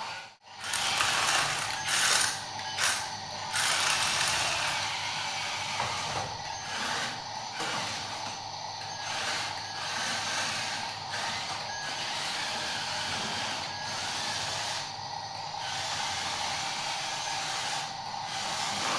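Small electric motors and gearboxes of a remote-control toy excavator and dump truck whirring, with a steady high whine and short breaks every couple of seconds as the motors stop and start. It is loudest for the first few seconds after a brief cut-out.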